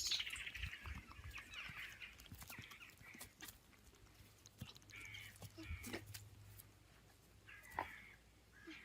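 Faint bird calls: a few short, high calls spread out, with quiet between them.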